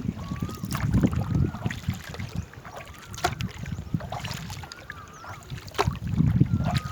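A small boat being paddled: water sounds from the paddle strokes and sharp knocks several times, over a low rumble of wind on the microphone.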